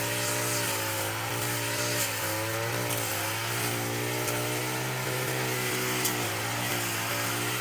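Small engine of a grass-cutting machine running steadily at high speed, its pitch dipping briefly now and then as it takes load cutting grass, with occasional light ticks.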